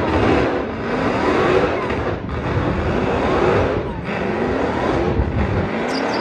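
A car engine accelerating hard at full throttle, its pitch climbing and dropping back several times as it shifts up through the gears, over loud rushing noise.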